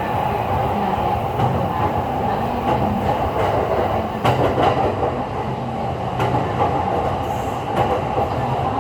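E231 series electric commuter train running, heard from inside the car: a steady rolling rumble with occasional clicks of the wheels passing over rail joints.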